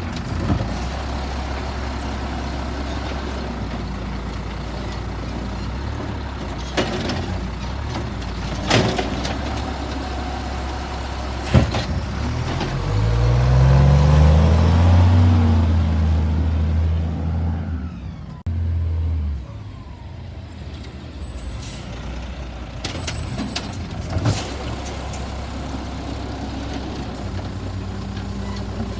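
Diesel engine of a Peterbilt 320 garbage truck idling, with occasional sharp knocks and clanks. About twelve seconds in the engine revs up and holds high for several seconds, then drops back to a lower idle.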